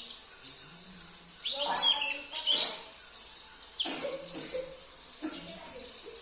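Small songbirds singing, as in a pleci (oriental white-eye) training recording: rapid high chirps and quick sweeping whistled notes in repeated bursts, quieter near the end.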